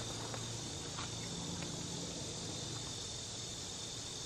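Steady high-pitched insect chorus, an unbroken drone.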